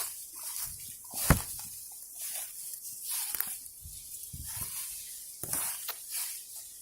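Footsteps and rustling through forest undergrowth as people push through the brush, with one sharp snap about a second in.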